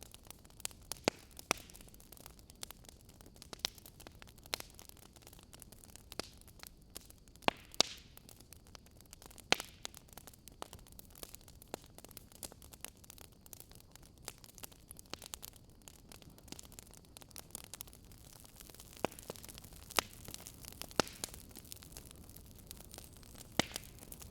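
Wood fire crackling: irregular sharp pops and snaps, a few of them much louder than the rest, over a faint steady hiss.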